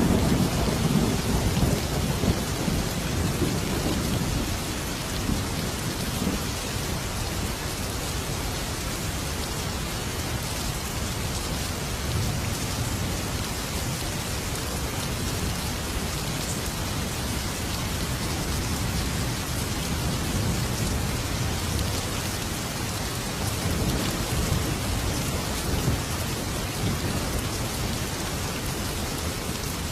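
Thunderstorm: steady heavy rain with a low rumble of thunder in the first few seconds that fades out, and softer rumbles later on.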